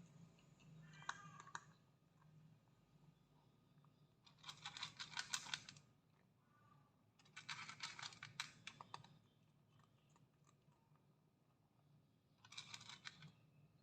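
A cat crunching dry kibble, in three bursts of rapid crisp clicks with pauses between them.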